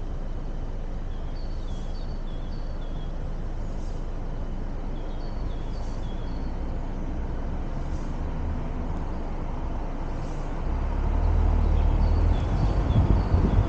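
City street traffic noise: a steady low rumble that swells about three-quarters of the way through as a vehicle comes close.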